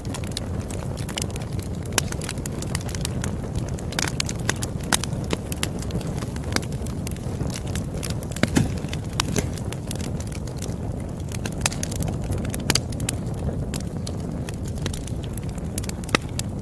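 Campfire burning with a steady low rumble, dotted with irregular crackles and a few sharper pops from the wood.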